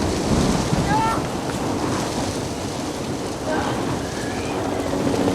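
Steady heavy rain and storm noise from a hurricane downpour, with a few brief, faint high-pitched voice-like sounds about a second in and again past the middle.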